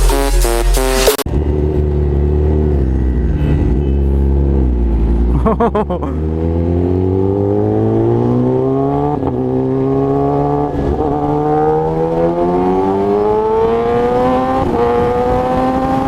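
Electronic intro music cuts off about a second in and gives way to a 2017 Kawasaki ZX-10R's inline-four engine running through an SC Project exhaust. From about six seconds in, the engine's pitch climbs steadily as the revs rise.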